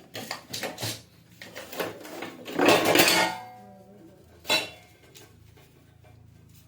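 Metal tools clinking and rattling as they are handled and set down, with a longer rattling clatter a little before halfway and a single sharp clink about four and a half seconds in.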